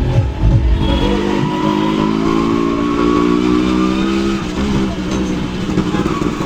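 Motorcycle engine running under way at a fairly steady pitch, which shifts briefly about four and a half seconds in.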